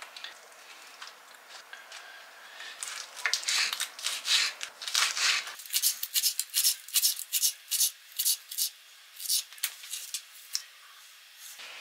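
A quick run of short, sharp scratchy strokes, about two or three a second, starting a few seconds in and stopping near the end: household scraping or rubbing noise.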